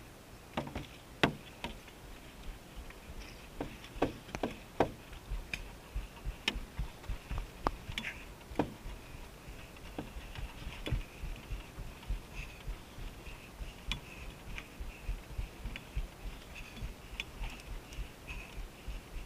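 A run of irregular sharp clicks and knocks, most of them in the first half, over soft low thumps and a faint steady high chirring.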